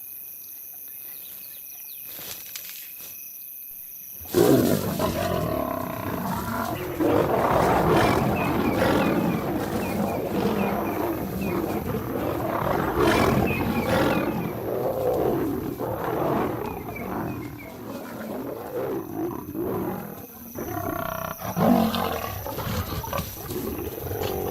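Night insects chirring steadily, then about four seconds in lions break into a fight: loud, overlapping growls and roars as a male lion charges lionesses defending their cubs.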